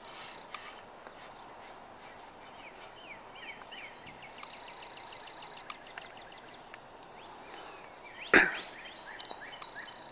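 Songbirds chirping and singing over a faint steady hiss of open air, including a fast trill of quickly repeated sweeping notes a few seconds in. About eight seconds in, a single loud sharp sound stands out above the birdsong.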